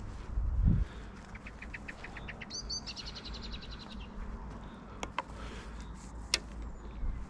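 A songbird sings a fast trill of evenly repeated chirps, about eight a second, stepping up in pitch partway through. A dull thump comes near the start, and a few sharp clicks come later.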